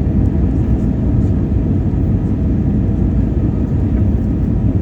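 Steady, low, rushing cabin noise of a jet airliner in flight, heard from inside the cabin.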